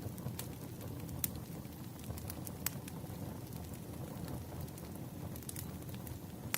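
Burning firewood crackling: scattered, irregular sharp pops over a steady low rumble of the fire.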